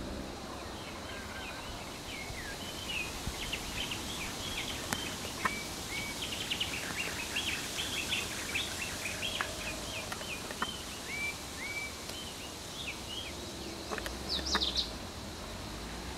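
Wild birds calling in many short, quick chirps over a steady background, with a couple of clear whistled notes and one louder high call near the end. A low engine rumble rises briefly near the end.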